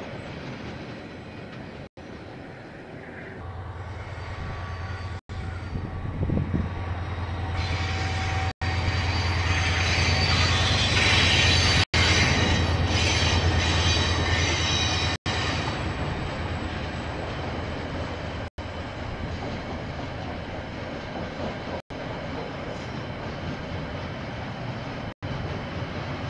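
KiwiRail train passing: a steady low drone builds about three seconds in, and its wheels squeal on the rails from about eight seconds in, the loudest part. After that the squeal stops and a lower rolling rumble carries on.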